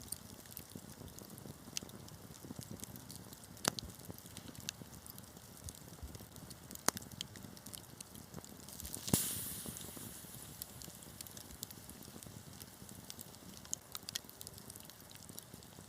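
Wood fire crackling, with scattered sharp pops and one louder pop about nine seconds in, followed by a brief hiss.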